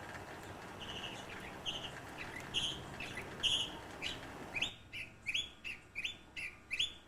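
A bird calling a series of short, repeated high notes, about three a second, over a noisy background. About two-thirds of the way in, the background drops away abruptly and the notes continue clearer and louder.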